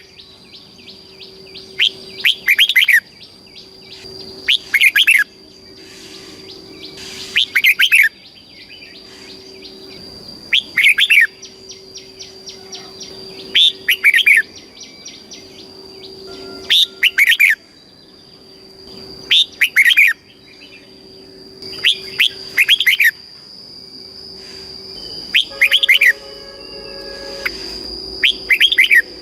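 Red-whiskered bulbul singing its short, quick whistled phrase over and over, about once every three seconds. A steady high whine runs underneath.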